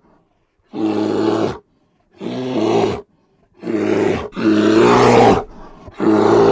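An animal calling loudly five times in a row. Each call is a pitched, rough cry lasting just under a second, with short pauses between them.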